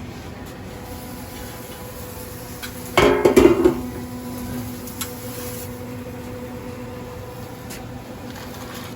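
A brief loud clatter of kitchen dishes or utensils about three seconds in, over a steady electrical hum from kitchen equipment.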